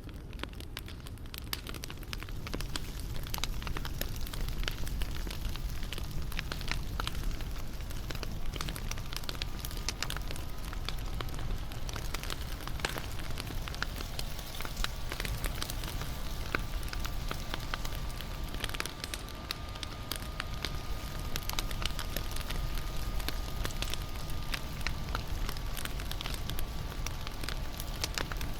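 Bonfire crackling and popping in dense irregular snaps over a low rumble of flames. A faint steady high tone sounds from about eight seconds in.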